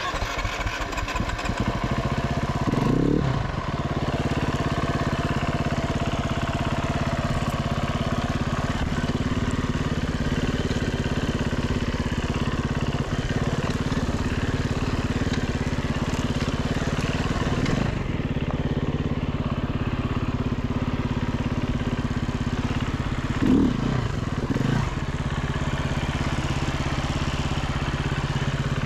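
Dirt bike engine of a 2014 Husaberg FE350, a single-cylinder four-stroke, running steadily at low revs. It gives a short rise and fall in revs about three seconds in and two more close together near the end.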